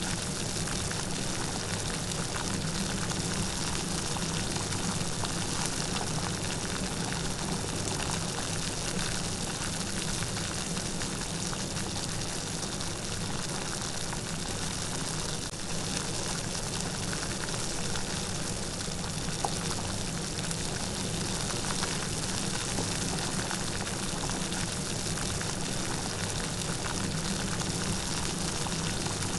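Steady light rain falling, an even patter of raindrops.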